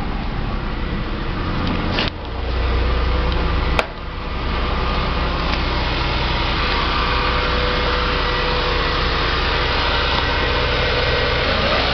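Fiat Palio Adventure engine idling steadily just after catching on a jump start from a flat battery. A sharp click is heard a little before four seconds in.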